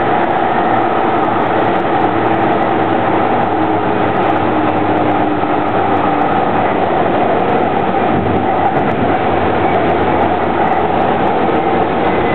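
DART light-rail train running at speed, heard from inside the car: a steady rumble of wheels on track with faint steady whining tones.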